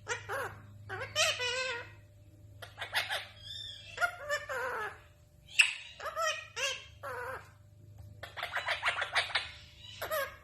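A parrot vocalizing in a string of short, pitched calls and chatter, with a quick run of short notes about eight seconds in.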